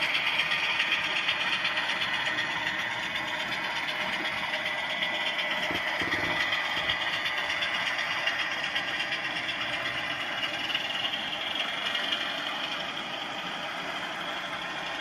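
Model diesel locomotive's DCC sound decoder playing a diesel engine running sound through its small onboard speaker, steady and thin, easing slightly near the end.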